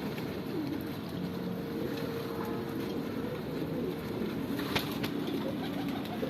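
Domestic pigeons cooing, low and wavering, over a steady background hum, with one sharp click about three-quarters of the way through.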